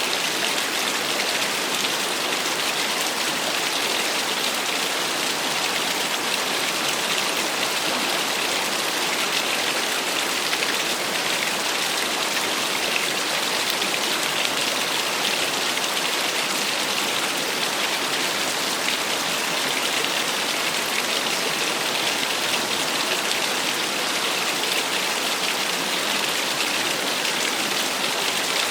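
Small waterfall splashing steadily: an even, bright hiss of falling water with little low rumble.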